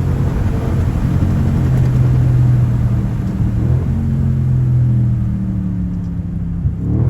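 Straight-piped Audi A8L 4.0T's twin-turbo V8 running under way, a loud steady low exhaust drone. Near the end the engine note rises sharply as the revs climb.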